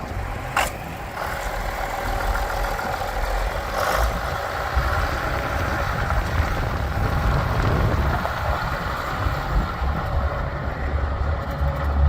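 John Deere 4020 tractor engine running steadily, with two short sharp clicks, one about half a second in and one about four seconds in.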